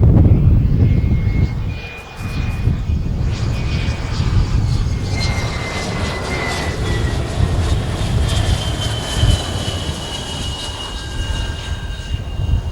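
Jet aircraft engines running at high power: a deep rumble with high turbine whines that slowly fall in pitch.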